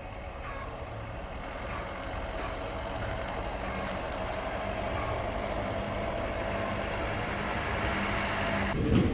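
A steady engine hum that slowly grows louder, then cuts off suddenly near the end.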